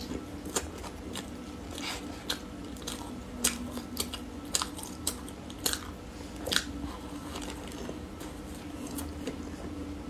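Close-miked mouth sounds of eating small crumb-coated cream puffs: biting and chewing, with sharp crisp clicks scattered through, most of them in the first seven seconds.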